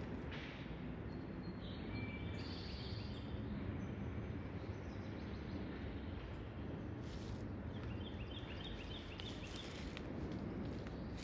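Outdoor nature ambience: a steady low background rumble, with a bird singing a quick run of short repeated chirps about two seconds in and again about eight seconds in.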